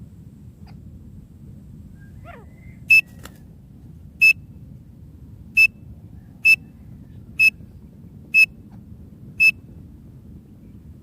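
Francolin (teetar) calling: seven short, sharp, high notes about a second apart, starting about three seconds in, over a steady low background noise.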